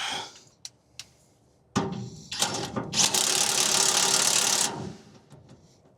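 Impact wrench hammering the upper bolt of a truck's rear shock absorber tight. It runs for about three seconds, starting about two seconds in.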